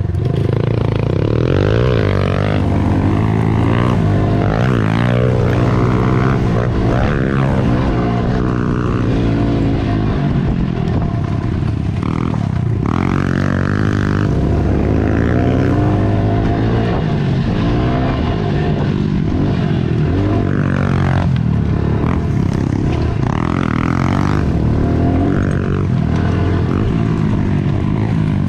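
Small 110cc single-cylinder four-stroke pit bike engines being ridden hard, revving up and down again and again as the throttle opens and closes.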